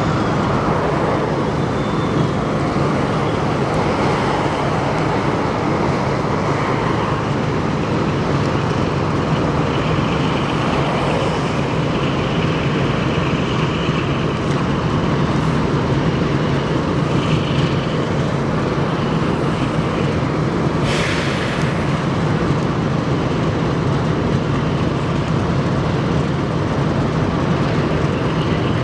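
A train running: a steady heavy rumble with a strong low hum, faint higher whining tones through the middle and a brief hiss about two-thirds of the way through.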